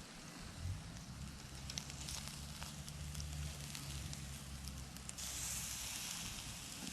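Wood fire crackling in a small fire pit, with scattered sharp pops over a low steady hum; a hiss comes in about five seconds in.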